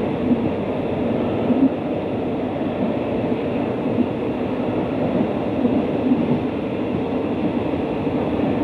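Steady running rumble of a moving passenger train along the track, heard from an open carriage window.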